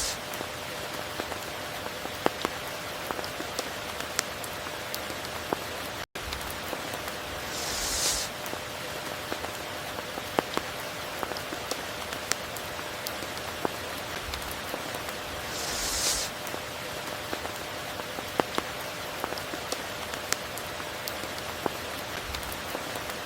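Steady heavy rain with individual drops pattering close by. A louder hiss swells and fades about eight and sixteen seconds in, and the sound cuts out for an instant about six seconds in.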